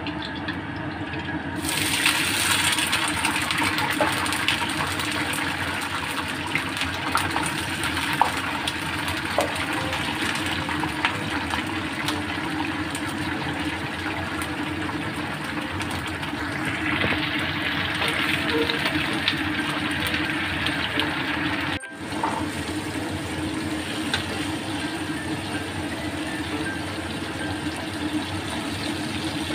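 Sliced chillies, shallots and garlic frying in hot oil in a wok: a steady loud sizzle that jumps up as the ingredients go into the oil about two seconds in.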